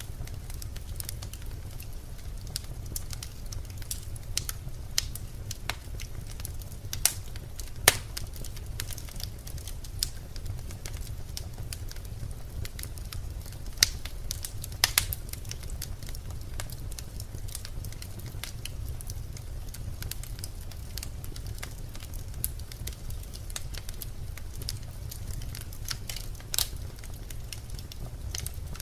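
Birch logs burning in a fireplace: a steady low rumble of the fire under irregular sharp crackles and pops, with the loudest snaps about eight seconds in and again around fourteen to fifteen seconds in.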